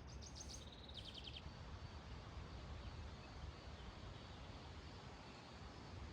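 A small songbird's quick trill of rapid high notes in the first second and a half, dropping to a lower pitch partway through, over a faint steady background hiss and low rumble.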